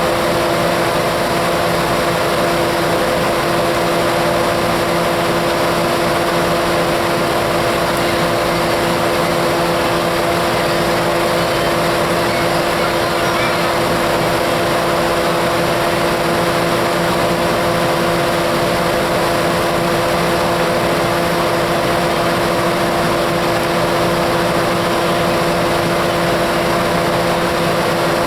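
Diesel locomotive engine idling steadily, a constant hum with several held tones.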